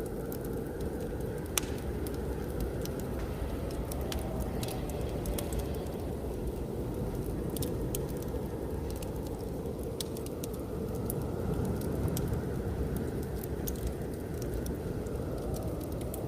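Wood fire crackling, with scattered sharp pops and clicks, over a steady low rush of blizzard wind whose faint whistling tone swells and fades.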